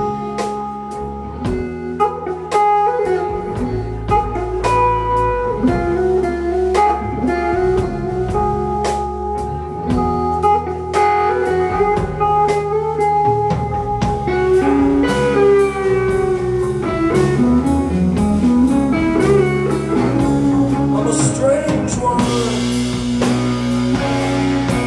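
Live rock band playing an instrumental passage between vocal lines: electric guitar and bass over a drum kit keeping a steady beat. Partway through the guitar plays sliding, bending notes, and near the end the band swells into a fuller, louder sound.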